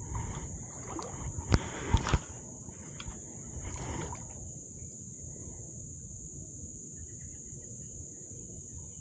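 Steady high-pitched drone of insects over a low outdoor rumble, with a few sharp clicks and knocks in the first four seconds, the two loudest about a second and a half and two seconds in.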